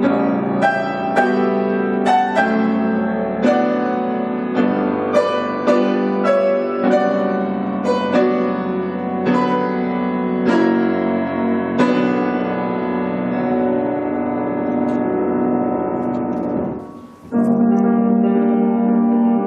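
Solo piano playing a slow, lyrical piece, its notes struck about every half second over held lower notes. Near the end the sound briefly falls away, then a sustained chord sounds.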